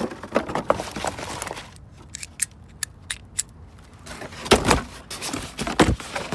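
Metal door-lock parts and hardware clinking and rattling as they are handled, with a run of light ticks in the middle and a couple of heavier knocks near the end.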